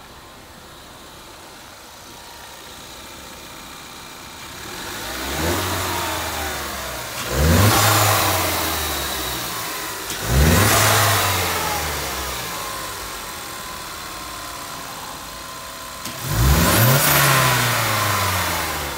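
Ford Mustang 2.3 L EcoBoost turbocharged four-cylinder engine idling, then revved four times, about five and a half, seven, ten and sixteen seconds in. The later three revs rise sharply and each falls back slowly to idle.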